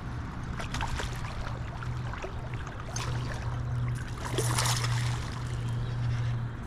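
Creek water rushing and splashing, with scattered small splashes and a louder splash about four and a half seconds in.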